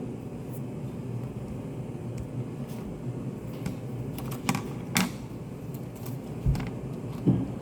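Study cafe room ambience: a steady low ventilation hum with scattered small clicks and taps, such as keys, pens or objects set on desks, and a dull thump about six and a half seconds in.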